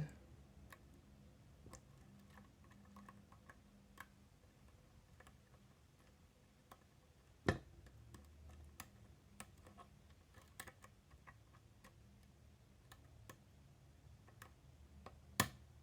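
Lock pick working the wafers of a Miwa DS wafer lock: faint, irregular small ticks and clicks, with two sharper clicks about halfway through and near the end.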